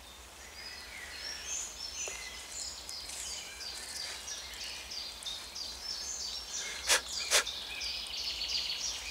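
Woodland birds singing, one of them repeating short high notes over and over, with two sharp clicks about seven seconds in.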